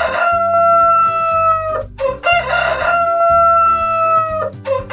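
Rooster crowing cock-a-doodle-doo, two long crows one after the other and a third beginning near the end, each ending in a long held note.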